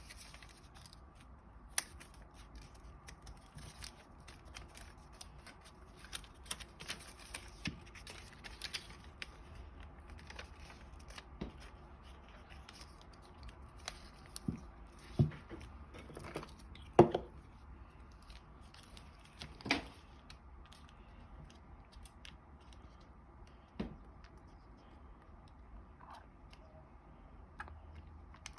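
Sheet of origami paper being handled, folded and creased by hand: scattered soft rustles and short crisp crackles, the sharpest about 17 seconds in.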